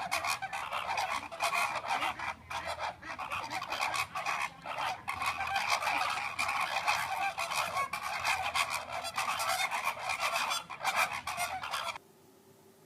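Birds honking and squawking densely and without a break, then cutting off abruptly near the end.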